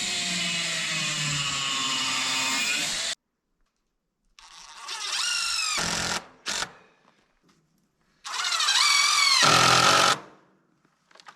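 Power drill running in three bursts, the motor whining up to speed and sagging under load as it drives screws into wood. The first run stops abruptly about three seconds in, and the bursts are separated by dead silence.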